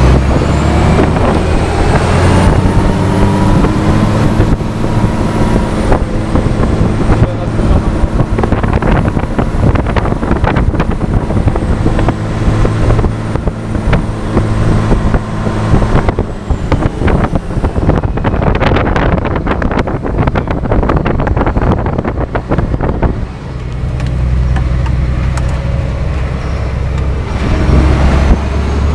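Scania R420 truck's diesel engine pulling steadily uphill, a continuous low drone. Through the middle of the stretch a rougher crackling noise rides over it.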